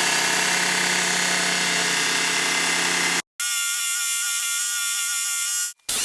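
A small electric motor tool running steadily, in three stretches that cut off abruptly. The first has a low hum, the second is higher and thinner, and the third is hissier.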